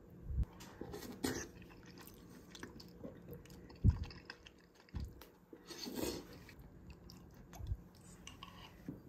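Close-up eating sounds: chewing and biting on spicy noodles and rice, with a wooden spoon scraping and tapping against a ceramic bowl, in scattered short thumps and clicks.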